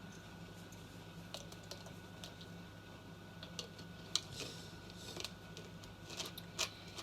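Light, irregular clicks and taps on a hard surface, sparse at first and more frequent in the second half, with a sharper tap a little past the middle and another near the end, over a steady low electrical hum.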